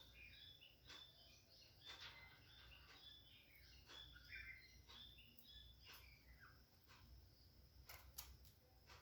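Several small birds chirping and twittering, faint, many short calls overlapping, with a few sharp clicks near the end.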